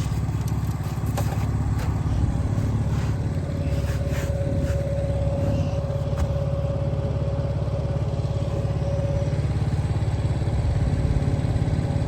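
7 hp four-stroke outboard motor running steadily at low throttle, pushing the boat while it is being broken in. A steady higher whine joins the hum for several seconds in the middle.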